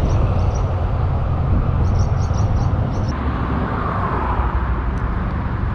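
Steady road traffic from a highway, a low continuous rumble with a vehicle passing and swelling briefly in the middle.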